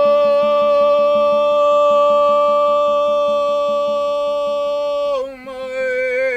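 Soundtrack music: a voice sings one long held note, reached by an upward slide, then breaks into quick wavering ornaments about five seconds in, over a faint fast pulsing beat.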